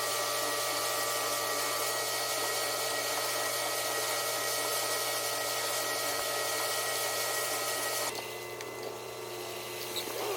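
Steady machine drone with a constant hum and fixed whining tones, fitting a concrete mixer truck's engine running during a pour. It drops abruptly to a lower, quieter sound about eight seconds in.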